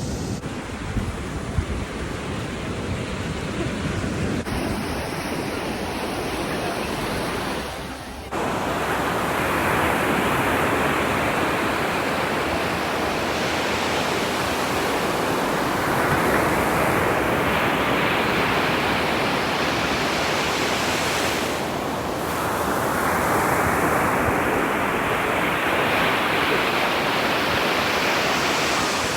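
Ocean surf breaking and washing on a beach, a steady rush that swells and eases with each wave, with some wind on the microphone. The surf becomes louder and fuller about eight seconds in.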